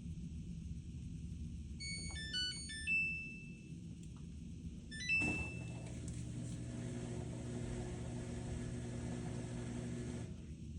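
Samsung washing machine control panel playing a short electronic melody of quick beeps at different pitches, then a held beep; about two seconds later another beep, followed by a steady machine hum that runs about five seconds and then stops.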